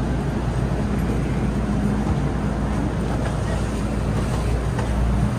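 Steady low hum and rumble inside an MTR M-Train carriage.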